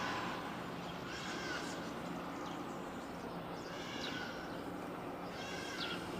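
Birds calling in short chirps a few times, about a second in, around four seconds and near the end, over a steady outdoor background hiss with a faint low hum.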